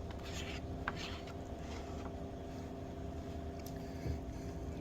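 A steady mechanical hum made of several fixed tones over a low rumble. A few light clicks and scrapes come in the first second or so.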